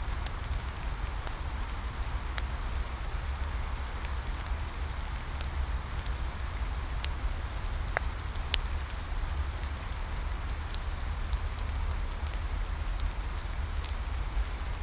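Steady rain falling, with a low rumble underneath and scattered sharp crackles from a bonfire, two of them standing out a little past halfway.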